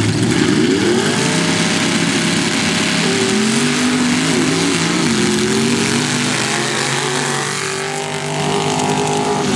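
Loud drag-racing engine running at high revs, its pitch climbing in the first second and then wavering up and down, with a heavy hiss of exhaust and noise over it.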